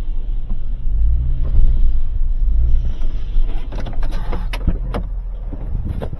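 A vehicle engine running at a low, steady idle, with a series of sharp knocks and clicks from about three and a half seconds in.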